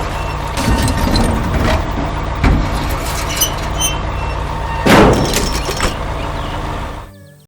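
Heavy machinery engine rumble with a knock roughly every second and a louder crash about five seconds in, fading out near the end.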